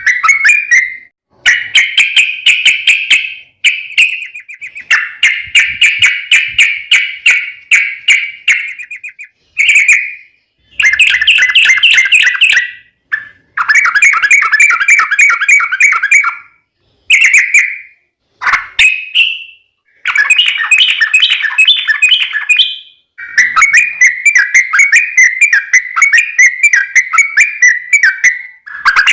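Yellow-vented bulbul (trucukan) singing: long, fast runs of repeated chattering notes in a string of phrases, each a second or three long and broken by short pauses.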